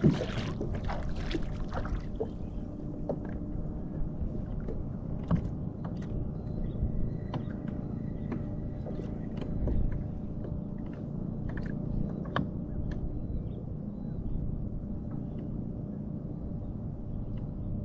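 A fishing kayak on the sea: water sloshing against the hull under a steady low rumble. There are splashes in the first couple of seconds, then scattered small knocks.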